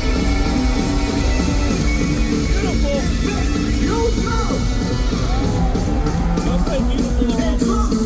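Live funk-rock band playing loudly, with shouted and sung vocals over the full band.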